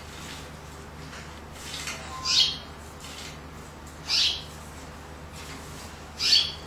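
Canary giving three short, loud calls about two seconds apart, each sliding down in pitch.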